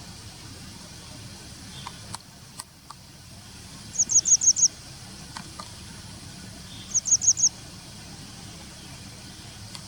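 Grey wagtail calling: two quick runs of high, thin chirps, about five notes and then four, some three seconds apart.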